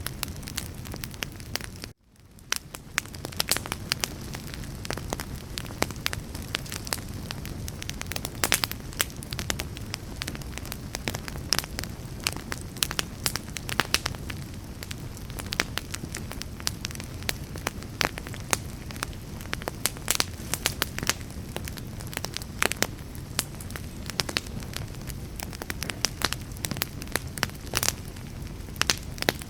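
Wood fire crackling, with many sharp irregular pops and snaps over a steady low rumble. About two seconds in the sound cuts out briefly and fades back in.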